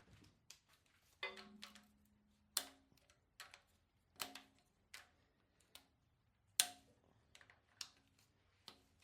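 Light metallic clicks and clinks, about a dozen spread out, a few ringing briefly: rocker-arm parts and steel push rods being pulled from a 7.3 IDI diesel's cylinder head and set down.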